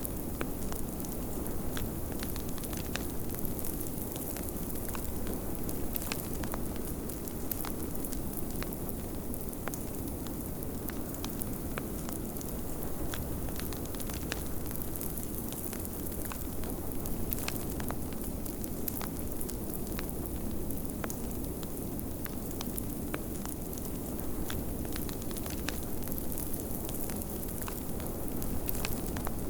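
Wood fire crackling, with frequent sharp pops over a steady rushing of snowstorm wind.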